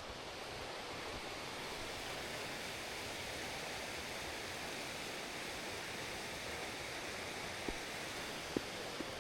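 Steady rushing of running water from a stream swollen with snowmelt, with a few faint clicks near the end.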